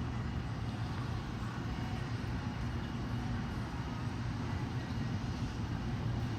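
Steady vehicle rumble and road noise, with a constant low hum and no change in speed.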